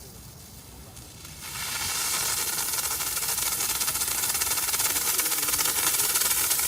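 Steam gun of an LPG steam car washer spraying with its trigger held, a loud steady hiss that starts about a second and a half in. The trigger is held on a cold start, before the steam comes out normally.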